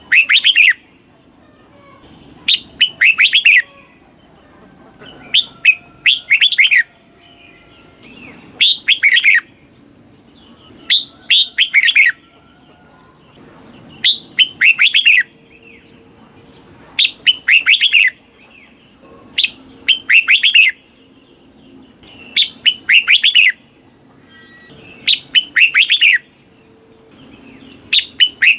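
Red-whiskered bulbul singing: a short phrase of quick, bright notes, repeated about every three seconds.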